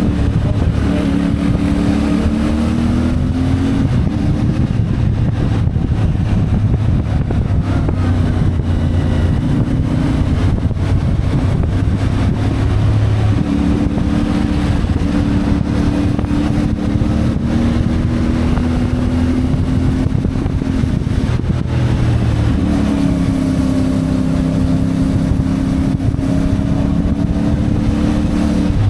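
CFMoto 450MT's parallel-twin engine running while riding, its note rising and falling several times with throttle changes, over a steady rush of wind and road noise.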